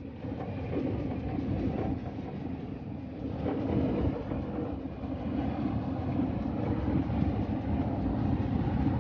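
Steady low rumble of a ship's engine heard on board, with a faint irregular rattle.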